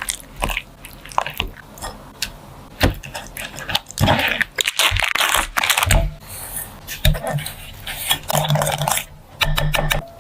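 Irregular crunching and crackling of crisp food being broken or handled, with sharp clicks scattered through.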